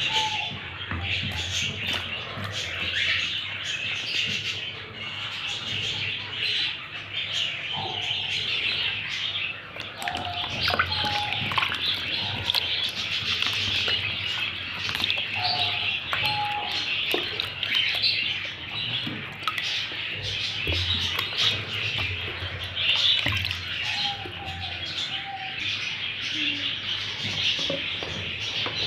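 A dense chorus of many small birds chirping continuously, with short, lower two-note calls recurring every few seconds.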